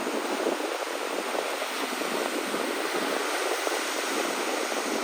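Sea waves on a shore: a steady rush of surf.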